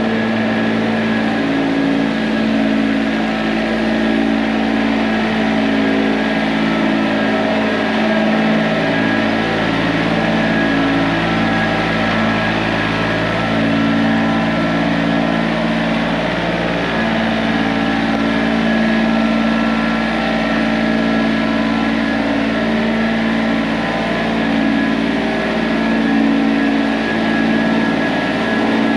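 A machine's engine running steadily at a constant speed, with no pauses.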